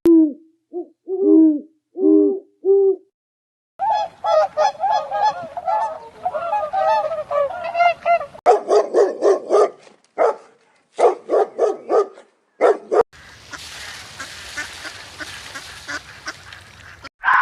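Farm poultry calling: short pitched calls in separate clips, then a fast chattering run of calls, then loud single calls one after another, ending in a steady noisy stretch for the last few seconds.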